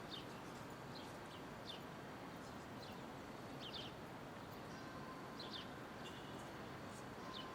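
Steady city street hum with small birds chirping over it: short, high chirps, singly or in quick pairs, every second or two.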